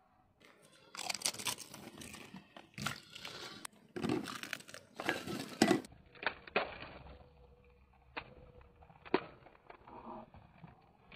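Crisp pani puri shells crunching as they are bitten and chewed. There is a run of loud, crackly crunches for about five seconds, then fainter scattered clicks of chewing.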